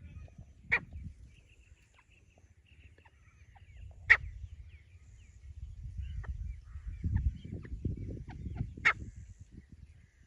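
Francolin calling: three short, sharp, loud calls about four seconds apart, with faint small chirps and a low rumble between them.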